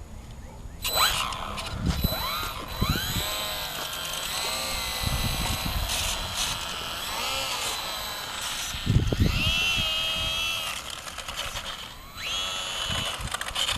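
Electric motor and propeller of a HobbyZone Carbon Cub S2 RC airplane whining, starting about a second in and rising and falling in pitch as the throttle changes. Gusts of wind rumble on the microphone several times.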